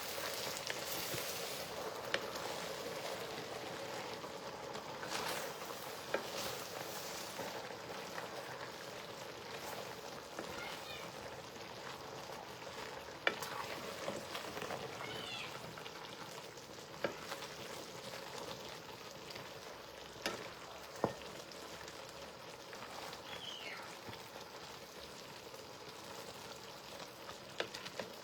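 Food frying in a pot with a steady sizzle, with a few sharp knocks of a utensil against the pot as it is stirred.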